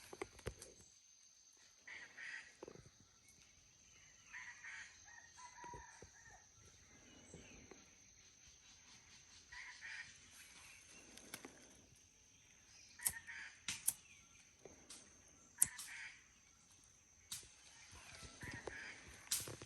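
Chickens calling at intervals, a rooster crowing among them, over a steady high whine, with a few sharp clicks in the second half.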